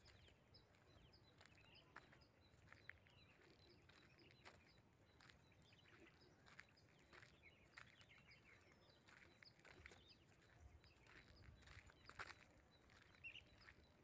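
Near silence outdoors: a small bird chirping faintly over and over, about two or three chirps a second through the first few seconds, with soft scattered footfalls on a dirt road.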